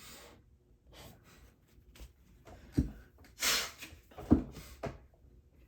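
Quiet handling noises: a few small clicks and taps, the sharpest about four seconds in, and a short breathy hiss just before it.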